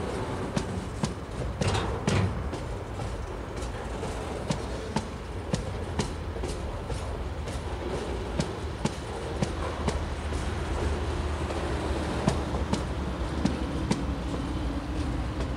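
Container flat wagons of a TasRail freight train rolling past, the wheels clicking sharply over rail joints about once or twice a second over a steady rumble. A low hum joins about ten seconds in.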